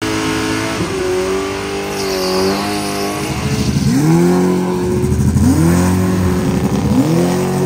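Naturally aspirated big-block V8 of a 1969 Camaro drag car, first held at steady revs, then launching hard: the engine note climbs, drops back at a gear change and climbs again, twice, as the car accelerates down the strip.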